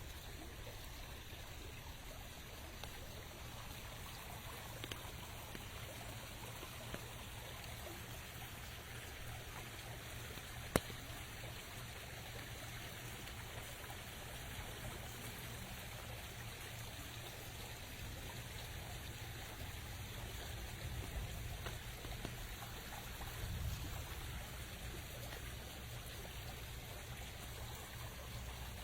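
Rain with water trickling and running steadily, scattered drops tapping, and one sharper tap about eleven seconds in.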